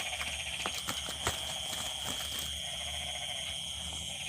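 Steady high-pitched trill of night insects, with a few sharp clicks in the first second and a half.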